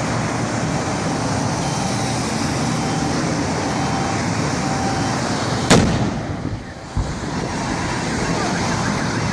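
A single sharp explosion from a burning truck a little past halfway, followed about a second later by a shorter, deeper thump, over steady roadway noise.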